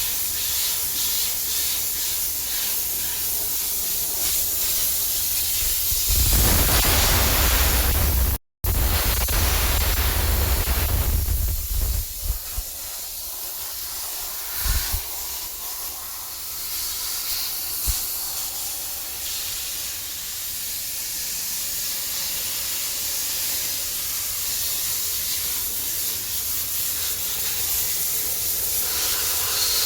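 A high-pressure cleaning jet hisses steadily as a BS6 truck silencer is cleaned. From about six seconds in it gets louder with a deep rumble, which lasts until about twelve seconds, with a momentary cut partway. A few single knocks follow.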